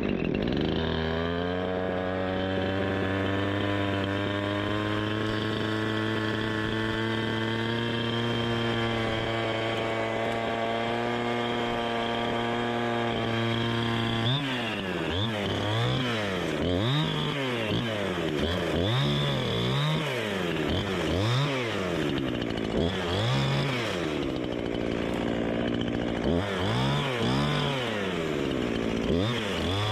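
Two-stroke chainsaw catching and running at a steady speed for about fourteen seconds, then revved up and down over and over, about once a second.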